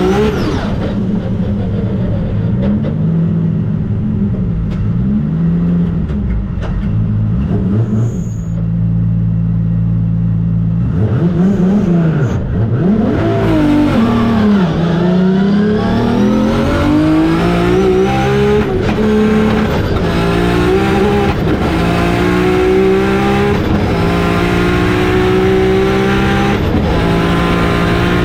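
Single-turbo 2JZ-GTE straight-six in a drag-race Toyota Hilux accelerating hard. The engine note climbs and drops through several gear changes in the first half, made by lifting off the throttle. It then climbs steadily in pitch in one long pull to the end.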